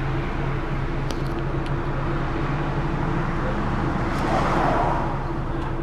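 Vehicle engine running steadily, with a louder swell of noise about four seconds in.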